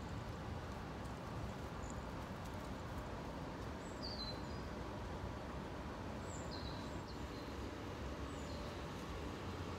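Outdoor ambience: a steady low background rumble, with a few short, high bird chirps scattered through it.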